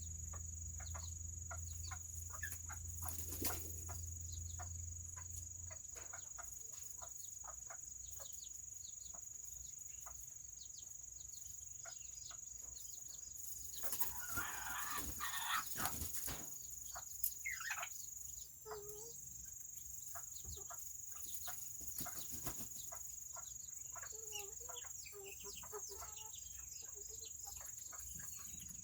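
Serama bantam chickens clucking, with a short rooster crow about halfway through, over a steady high insect-like tone and scattered light clicks.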